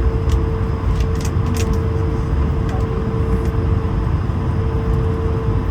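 Steady cabin noise inside an Airbus A220 airliner: a low rumble under a constant hum, with a few short clicks or rattles in the first two seconds.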